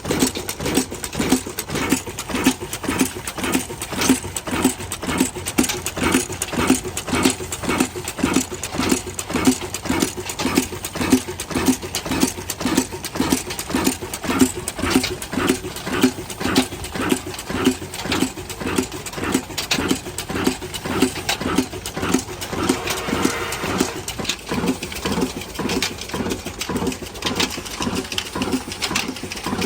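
Old single-cylinder 'desi' black diesel engine, rated 22 hp, running steadily with a slow, even beat of a couple of firing strokes a second.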